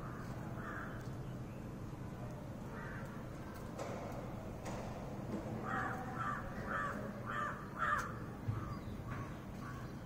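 Short harsh bird calls: a few scattered ones, then a quick run of about seven, roughly two a second, in the second half.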